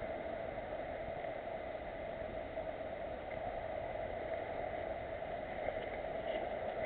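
Steady hiss and rumble of noise with no distinct events, carrying a faint constant high tone.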